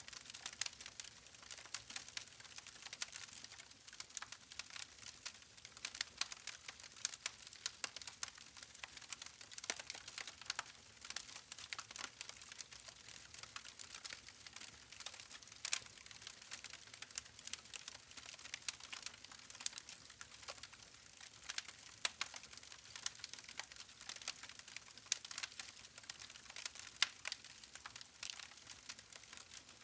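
Wood campfire crackling: many sharp, irregular pops and snaps over a soft steady hiss of burning logs.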